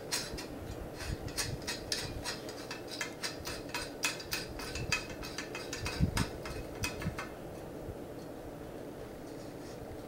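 Small metal parts of a balance bike's headset clicking and clinking as the bearing adjuster cap is tightened down, with one heavier knock about six seconds in. The clicking stops near the end.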